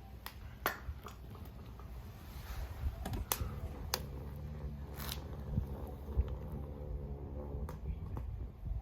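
Wood fire crackling in a homemade stainless steel bowl fire pit in its early burn after lighting, with irregular sharp pops over a low rumble.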